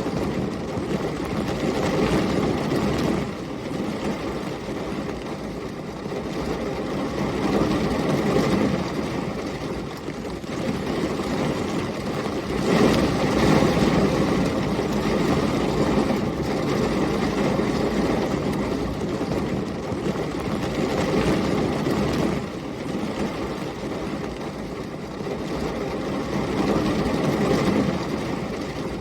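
Heavy rain with gusting storm wind: a dense rushing noise that swells and eases every few seconds, loudest about thirteen seconds in.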